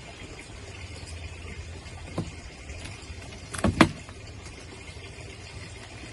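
Knocks and clicks from handling craft materials: a light knock about two seconds in and a louder clatter of two or three sharp knocks a little past the middle, over a low steady hum.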